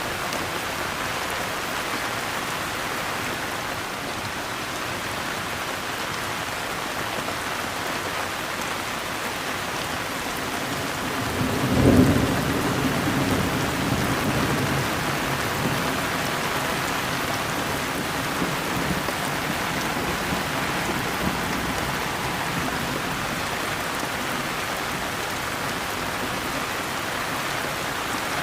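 Steady heavy rain falling. About twelve seconds in, a clap of thunder breaks in and rumbles away over the next few seconds.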